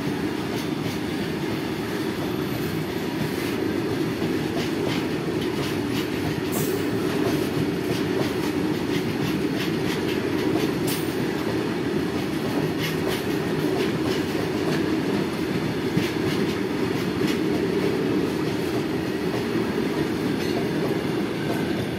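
Loaded coal wagons of a freight train rolling past close by: a steady heavy rumble of wheels on the rails with rapid clicking and clatter over rail joints. Two brief high wheel squeals cut in, about six and eleven seconds in.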